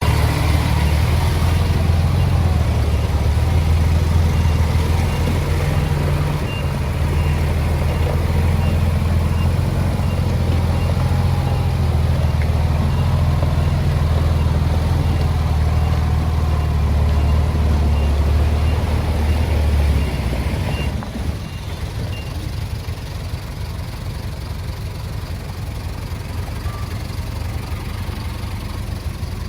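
Heavy diesel earthmoving machinery running steadily, with a faint reversing beeper sounding about once a second. The engine drops noticeably in level about twenty seconds in.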